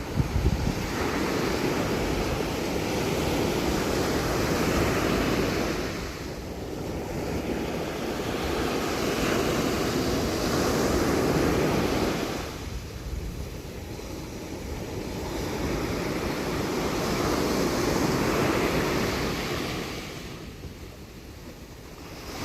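Waves breaking and washing up on a sandy beach, swelling and ebbing about every six seconds, with wind buffeting the microphone.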